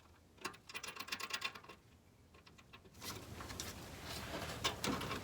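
Rapid clicking of a hand ratchet running bolts in, lasting about a second and a half. Then, about three seconds in, a steadier background noise with scattered clicks and knocks of tools on metal sets in abruptly.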